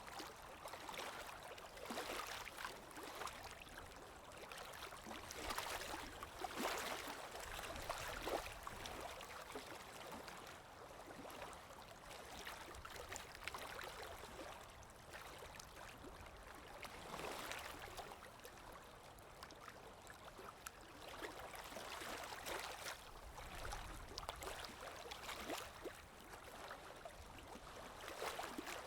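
Water lapping gently with wind, an ambient recording that swells and ebbs every second or two.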